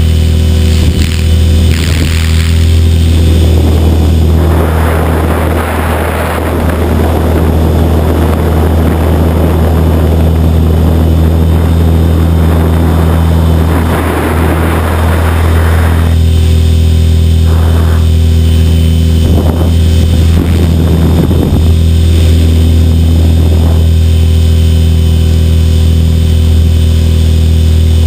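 HK500 radio-controlled electric helicopter heard from its onboard camera: the main rotor and motor make a steady, loud low buzz. Gusts of wind noise rush over the microphone between about 4 and 16 seconds in.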